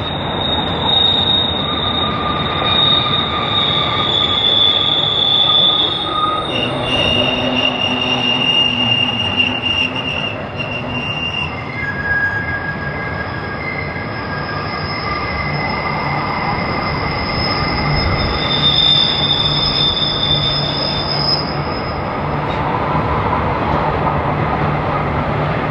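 Freight train cars rolling past with their wheels squealing on curved track: several long, high squeals at different pitches that overlap and come and go, over the steady rumble of the train. A low steady hum joins in about halfway through.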